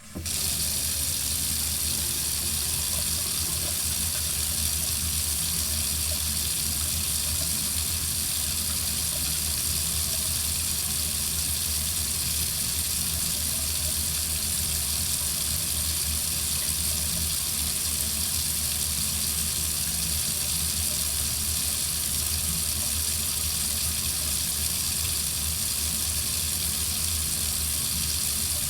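Water running steadily from a faucet into a sink, an even, unbroken rush of water.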